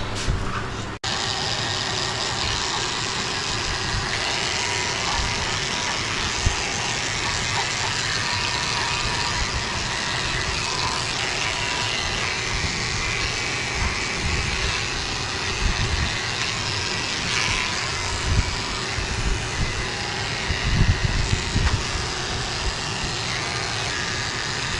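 A small electric motor running steadily, with a few soft knocks; it cuts out for a moment about a second in.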